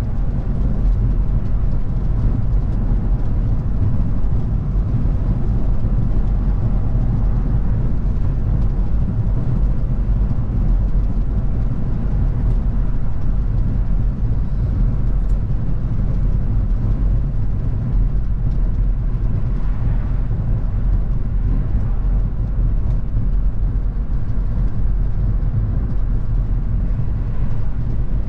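A car driving at a steady speed: a continuous low rumble of engine and tyres on the road, holding even throughout.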